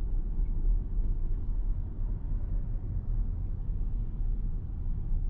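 Steady low road and tyre rumble of a Tesla Model Y driving along a street, with no engine note.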